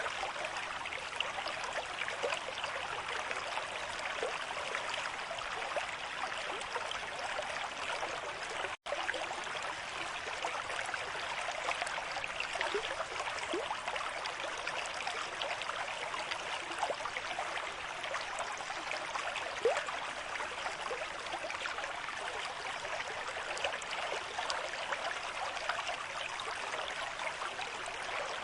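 A river stream flowing steadily at a moderate rate, a continuous rushing of water with many small gurgles through it. The sound cuts out for a split second about nine seconds in.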